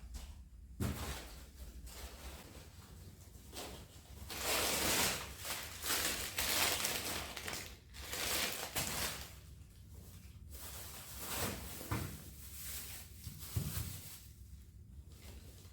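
Rustling and handling noises in a small room: several long rustling bursts with a few light knocks, over a low steady hum.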